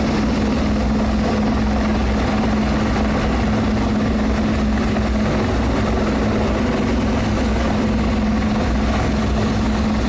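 Helicopter hovering close by, its rotor and engine making a loud, steady noise with an even hum underneath.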